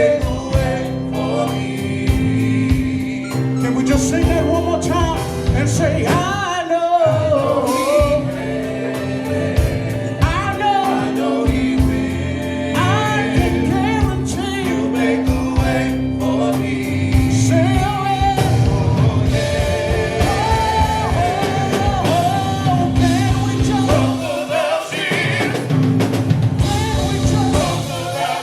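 Live gospel band playing, with a singer's voice sliding up and down through long runs over a held low note and drums.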